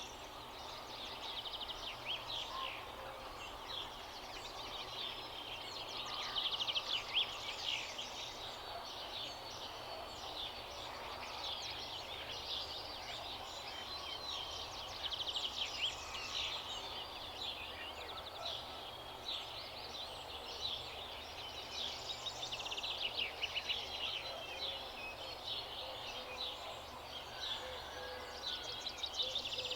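A chorus of many small birds chirping and twittering at once: quick, high, overlapping chirps that never stop, over a faint steady outdoor background.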